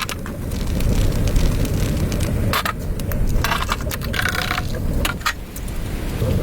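Strong wind buffeting the microphone as a steady low rumble, with a few short scraping noises in the middle.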